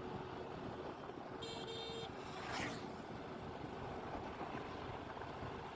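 Faint road traffic noise, with a short horn toot about a second and a half in and a brief whoosh of a vehicle just after.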